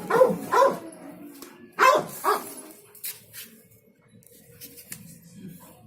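A puppy yelping: two pairs of sharp, high cries in the first two and a half seconds, then quieter.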